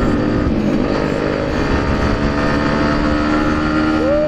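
Motorcycle engine running at highway speed and gathering speed a little, heard from the rider's seat over steady wind rush. Near the end comes a short tone that rises and then falls.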